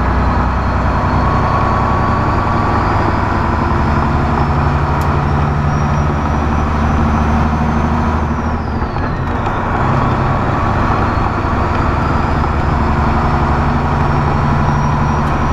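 Semi truck's diesel engine running steadily, heard from the cab, with a high whine that climbs slowly for several seconds, drops away about halfway through, then climbs again and drops near the end: the turbocharger spooling up and down with engine speed.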